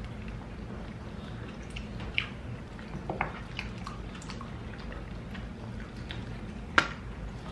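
Wet chewing and lip-smacking of people eating saucy chicken wings: scattered short, sharp mouth clicks and smacks, the loudest near the end.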